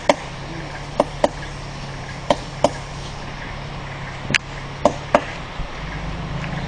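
About eight sharp strikes at irregular intervals, several coming in quick pairs, over a steady low hum.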